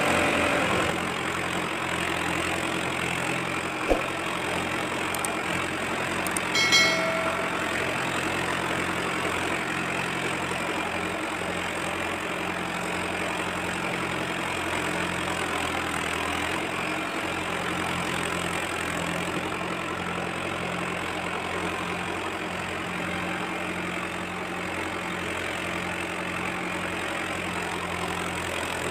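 An engine running steadily at idle, with one sharp knock about four seconds in and a short beep-like tone a few seconds later.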